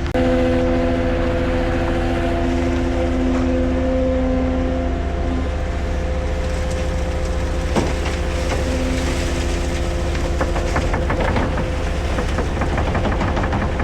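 Heavy vehicle engine running steadily, with a droning tone over the first five seconds or so, and scattered knocks and clatter, one sharper knock about eight seconds in.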